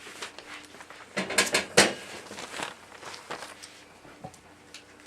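Handling noises: a run of knocks and clatters, loudest between about one and two seconds in, over a faint steady hum.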